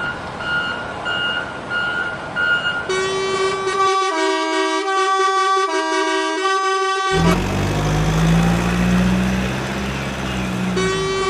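Truck sound effects in sequence: a run of short beeps about twice a second, then a multi-note horn tune, then a truck engine revving up with rising pitch, and the horn tune returns near the end.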